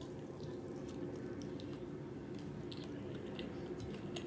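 Close-miked wet chewing of a mouthful of fried chicken, with many small sticky mouth clicks and smacks, over a steady low background hum.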